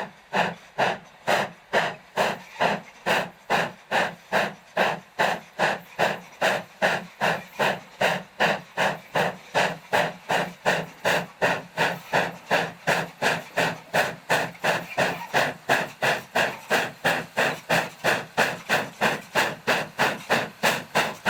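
Steam locomotive exhaust chuffing in a fast, steady rhythm, about three and a half sharp beats a second, with a hissing edge to each beat.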